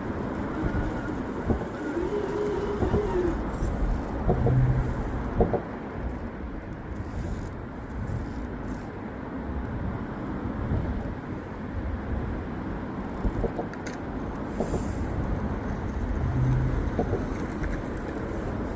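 RC rock crawler driven over rocks: its electric motor whines up and down briefly a couple of seconds in, with a few clicks and knocks from the chassis and tyres over steady outdoor background noise.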